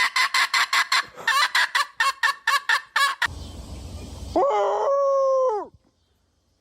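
Chicken clucking rapidly, about four to five clucks a second. After a brief burst of noise comes one drawn-out call that rises, holds and falls.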